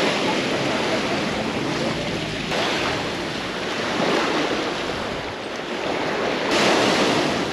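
Sea waves breaking and washing ashore, with wind on the microphone. The sound shifts abruptly about two and a half seconds in and again near the end, as if spliced from separate recordings.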